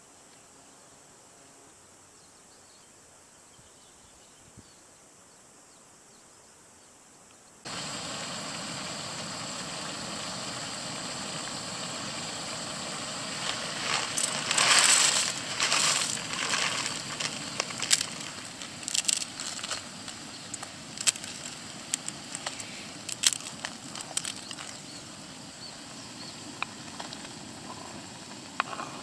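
Faint outdoor background, then from about eight seconds in a steady frying sizzle with sharp clicks and crackles of a utensil stirring in the pan, loudest around fifteen seconds in.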